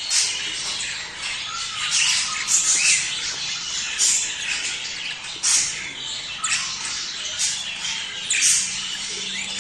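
Budgerigars chattering and warbling continuously, with sharp squawks breaking out about once a second: the busy chatter of budgies in breeding mood.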